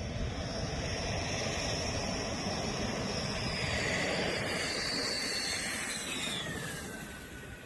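Dassault Rafale twin-engine fighter jet flying past. Its jet roar builds to a peak and then fades, and a high whine above it falls steadily in pitch as it goes by.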